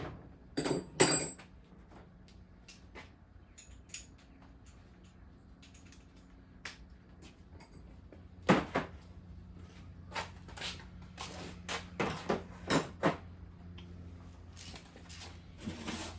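Metal hand tools being handled and set down: two loud clanks about a second in, then a run of knocks and clinks from about 8 to 13 seconds.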